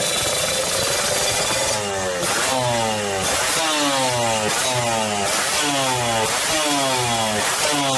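Kawasaki Ninja two-stroke motorcycle engine running through a new aftermarket exhaust, held at steady revs, then from about two seconds in blipped repeatedly, roughly once a second, each rev falling quickly away.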